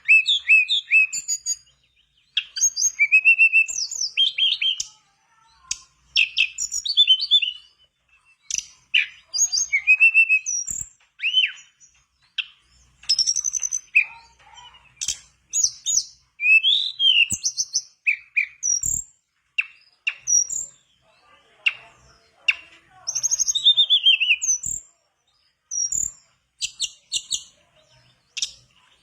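Mangrove blue flycatcher (tledekan bakau) singing: quick, varied, high chirping phrases, each a second or two long, with short pauses between them.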